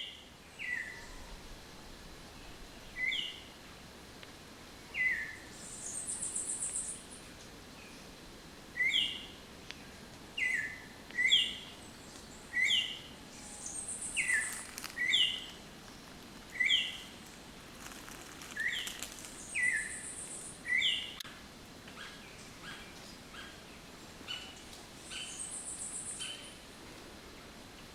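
Birds calling: one repeats a sharp two-note call, a high note dropping to a lower one, every second or two, fainter and shorter near the end. A high buzzy trill about a second long comes four times.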